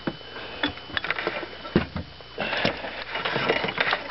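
Irregular knocks and clatter, with two longer rustling, splashy stretches in the second half, as a big landing net is worked over the side of a small boat to scoop up a walleye.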